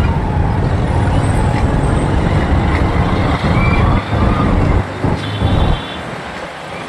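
Road noise of a motorcycle ride through city traffic, with heavy low wind rumble on the microphone that eases about six seconds in. A short high-pitched tone sounds about five seconds in.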